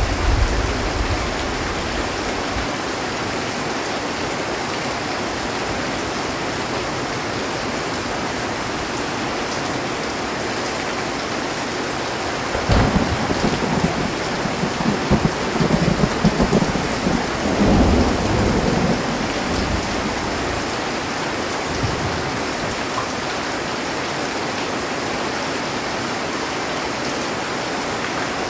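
Heavy rain drumming steadily on a metal roof, with a rumbling, crackling roll of thunder from about halfway through that dies away after several seconds.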